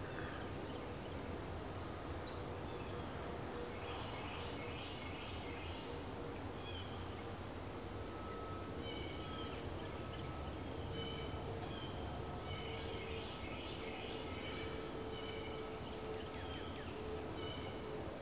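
Small birds at a feeder chirping in several short bursts of quick high notes, over steady background noise and a faint steady hum.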